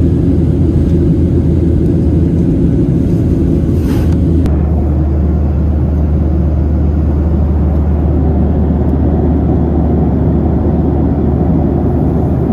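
Steady low drone of a vehicle in motion, shifting slightly about four and a half seconds in.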